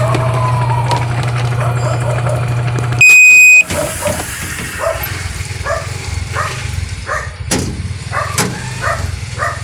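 Sharp top-load automatic washing machine humming steadily, then one loud electronic beep about half a second long as it is switched off, after which the hum drops away. A dog barks repeatedly in the background.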